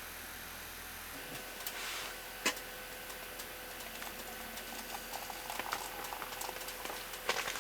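Sizzling and crackling on the wood stove, with scattered light clicks and one sharp knock about two and a half seconds in; the crackling grows busier in the second half.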